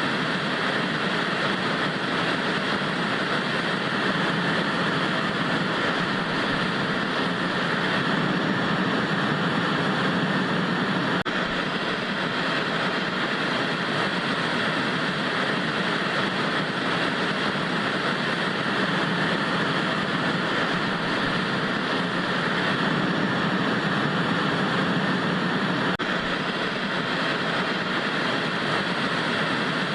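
Analog TV static: a steady, even hiss of white noise that neither rises nor falls.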